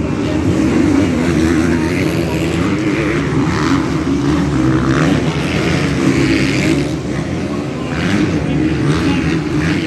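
Motocross bikes' engines running on the track, their note rising and falling as riders work the throttle.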